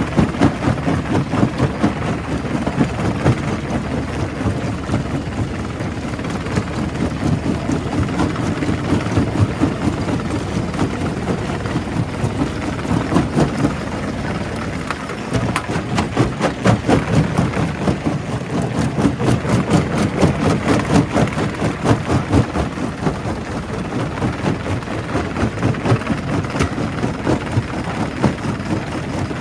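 Primary rock crusher working: a steady low rumble with a dense, irregular run of knocks and cracks as rock is broken, thickest in the middle of the stretch.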